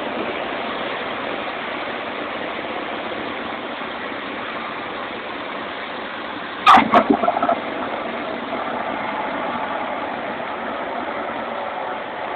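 Cessna 150's Continental O-200 engine and airflow heard as a steady drone in the cabin. About seven seconds in comes a short, loud burst of crackles.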